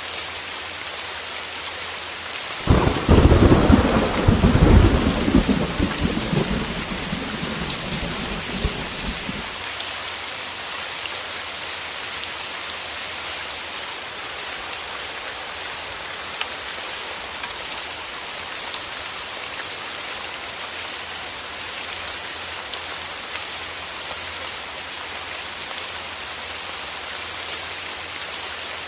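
Heavy rain falling steadily on a window, with a loud clap of thunder about three seconds in that rumbles and dies away over the next six seconds.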